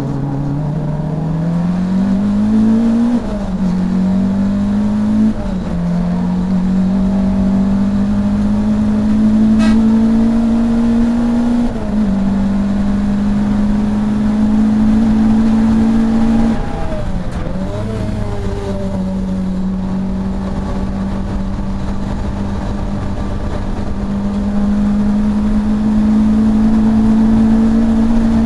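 Saloon race car's engine heard from inside the car, pulling hard through the gears with two quick upshifts in the first few seconds, then held at high revs. The revs dip and blip briefly around the middle, then climb again near the end.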